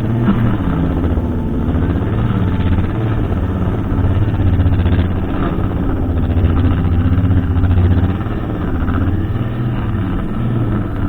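Brushcutter engine running steadily under load, its pitch wavering slightly up and down as it cuts.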